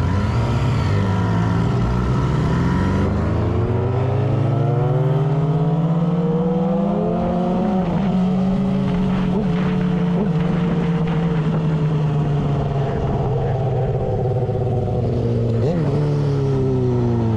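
Motorcycle engine running under way. Its pitch climbs over the first several seconds, holds fairly steady with a brief dip about eight seconds in, then falls near the end.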